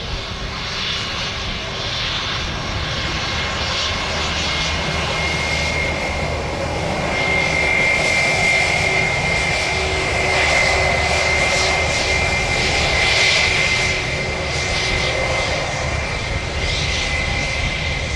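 Jet airliner's engines at takeoff power, a steady rush with a high whine, swelling to its loudest about halfway through and then easing off.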